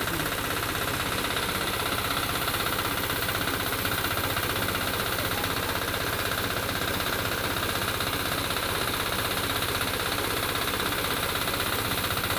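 Engine of a rice harvesting machine running steadily under load, a dense, even mechanical din with a fast regular pulse.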